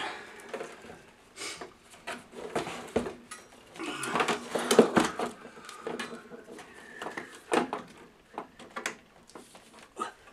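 Clicks, knocks and scraping of metal hardware and connectors being handled while a power supply is fitted to a Quantel Paintbox, with the busiest clatter about four to five seconds in.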